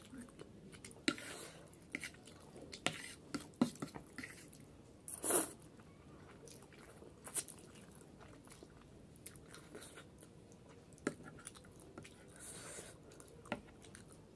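Close-miked eating sounds of someone chewing soupy Maggi masala noodles and boiled egg: wet mouth sounds with scattered sharp clicks, and one louder, noisier burst about five seconds in.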